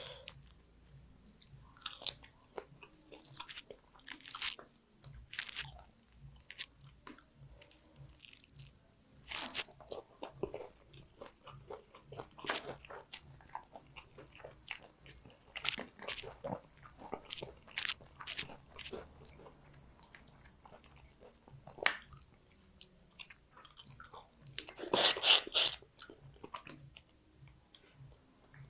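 Close-miked eating: a person chewing and biting a mouthful of fish curry and rice, with wet mouth sounds and sharp crunches scattered throughout. Near the end comes a louder, longer burst of crunching.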